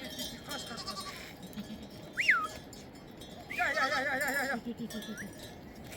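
One bleat from the herd of sheep and goats: a single quavering bleat about a second long, a little past the middle. A short whistled note rises and falls about two seconds in.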